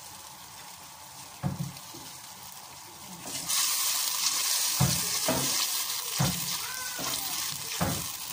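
Onions frying in hot oil in a steel pot: a quiet sizzle that turns suddenly loud about three seconds in as more goes into the pan. A plastic slotted spatula knocks and scrapes against the pot several times as it is stirred.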